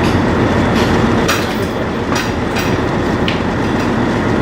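Sightseeing boat running underway: a loud, steady rumble, with about five sharp clicks or rattles in the first three and a half seconds.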